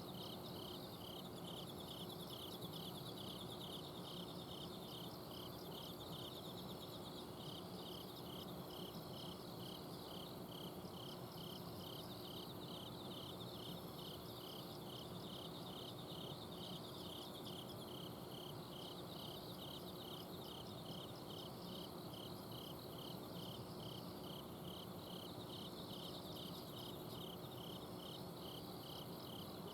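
Several kinds of autumn crickets singing together at night: one gives a steady run of evenly spaced chirps over others' continuous high trills. Beneath them runs a steady low hum from an air-conditioner outdoor unit.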